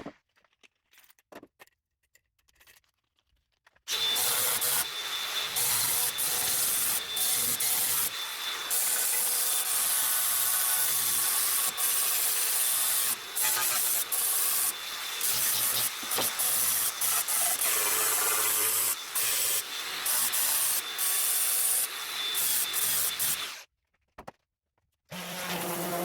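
Electric sander worked against the welded steel of a car door panel, a steady rasping that starts about four seconds in with a few brief dips and cuts off shortly before the end.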